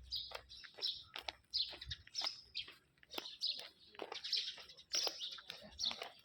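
Birds chirping: many short, high chirps coming quickly, several a second.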